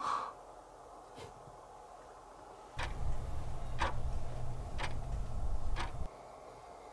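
Regular ticking, about one tick a second, over a low steady hum.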